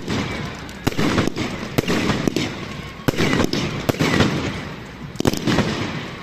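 Fireworks going off one after another: about a dozen sharp bangs and cracks, some in quick pairs, with a rumbling echo after each. They thin out near the end.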